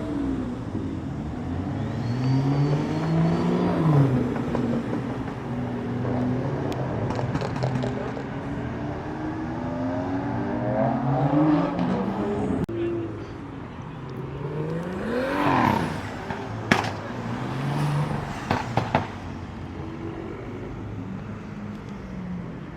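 Car engines running and revving as cars drive past, their pitch rising and falling with more than one engine heard at once. A few sharp clicks come near the end.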